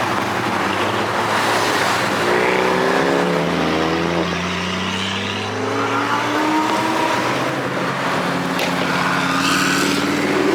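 Car engine pulling under acceleration, its pitch climbing a few seconds in and then running steadier, over constant road and tyre noise.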